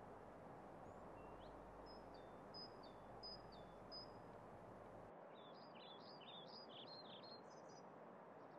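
Small birds chirping over faint steady background noise: a few short separate chirps, then a quick run of twittering notes in the second half. The low background hum drops away suddenly about five seconds in.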